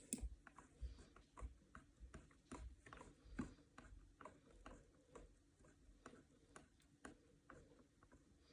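Faint, irregular clicking of a computer mouse, a click or two every second, against near silence.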